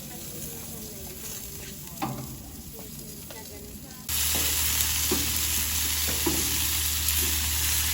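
Meat sizzling on a barbecue grill. About four seconds in, the hiss jumps much louder and stays steady, with a low hum underneath.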